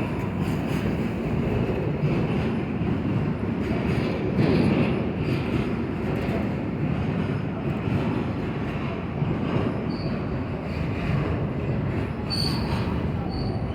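Metro train running along the track, with a steady rumble of wheels and short high wheel squeals about ten and twelve seconds in.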